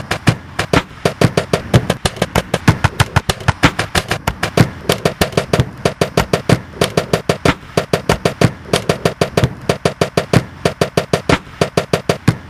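Fast, even rhythm of sharp clicks and knocks, about six a second, made by chopping and looping short snippets of appliance and drumming recordings, over a steady hum. In the second half a mid-pitched hum pulses on and off in short blocks between the clicks.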